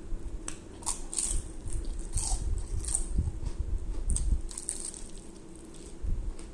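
Biting into and chewing crispy fried chicken from Church's, the battered crust crunching in irregular crackles.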